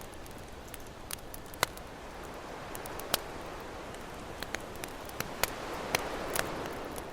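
Campfire crackling with scattered sharp pops over the wash of ocean waves, a wave swelling in about three quarters of the way through.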